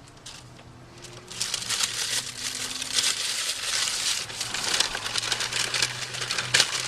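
Paper fast-food wrapper crinkling and rustling as it is handled, starting about a second in.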